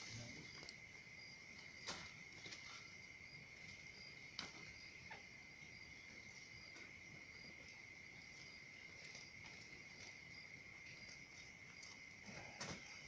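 Faint night insect chorus: a steady, high, cricket-like trill with a fainter repeating chirp above it, and a few soft clicks.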